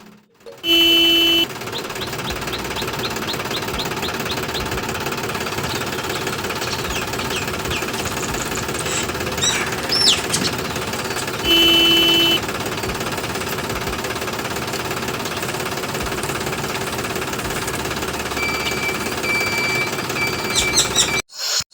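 Mini tractor engine running with a steady knocking rattle. Two short beeps sound, one about a second in and one about halfway through.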